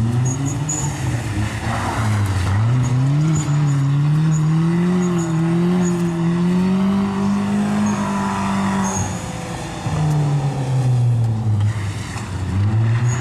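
A car engine revving hard, its pitch climbing and wavering, dropping about ten seconds in, then climbing again. Tyres squeal under it, as in a burnout or donuts.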